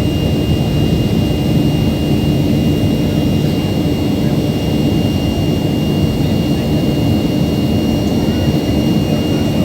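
Steady, loud engine drone of a moving vehicle, a low rumble with a thin, even high whine, unchanging throughout.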